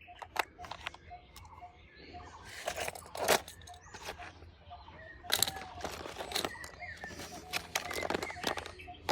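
Irregular clicks, knocks and rattles of a plastic toy rifle being handled, with a few sharper clacks.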